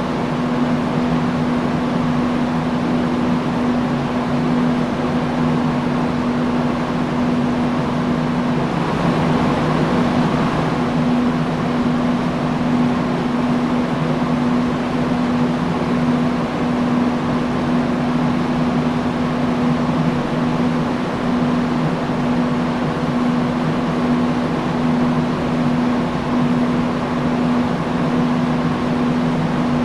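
Industrial fan running steadily: an even rush of air over a constant low motor hum.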